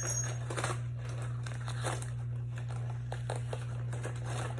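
Packaging crinkling and tearing in irregular rustling bursts as it is opened by hand, over a steady low hum.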